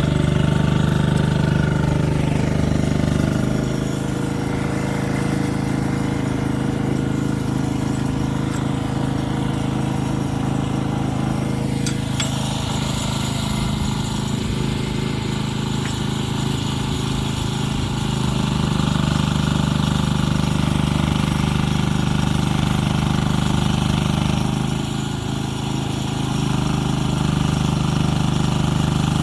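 An engine running steadily, its low pitch and loudness shifting slightly a few times, with one short click about twelve seconds in.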